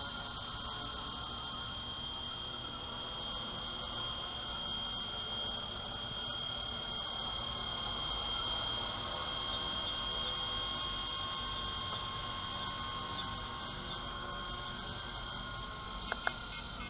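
WLToys V915 fixed-pitch RC helicopter in flight: a steady high-pitched electric motor whine with rotor hum, wavering slightly. Near the end come a couple of sharp clicks and the whine stops as the helicopter comes down unexpectedly, which the owner puts down to a low battery.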